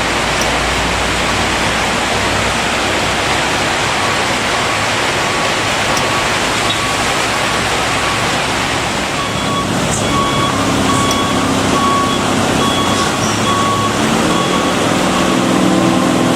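Passing heavy-truck traffic: a loud steady rush of engine and road noise with a vehicle's repeating warning beeps, about two a second. The beeps come through clearly about nine seconds in as a truck's engine note grows.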